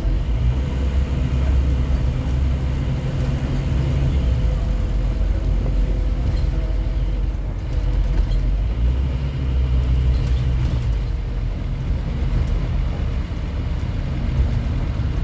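Scania N230UD OmniCity double-decker bus under way, its engine running with a heavy low rumble that strengthens and eases a few times as the bus accelerates and slows.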